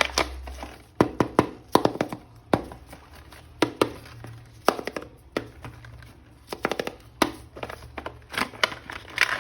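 Irregular sharp plastic clicks, cracks and knocks of a toy action figure and its packaging being handled, several a second at the busiest moments, with some crinkling.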